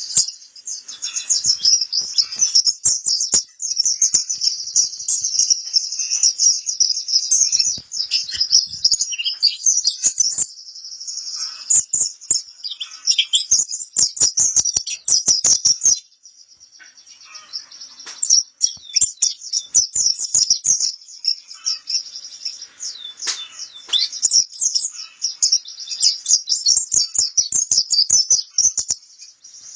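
White-eye (pleci kapur) singing: a long, rapid, high-pitched twittering song of many quick chirps, with a brief lull about halfway through.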